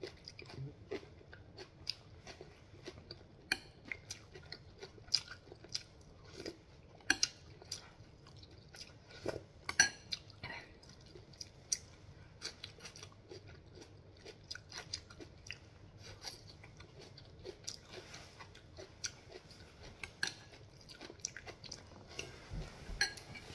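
A person chewing with the mouth close to the microphone: a steady run of short smacks and clicks, one noticeably louder a little before ten seconds in.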